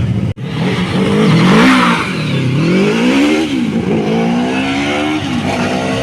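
Rally car engine revving at the stage start, its pitch climbing and falling several times. The sound drops out for an instant just after the start.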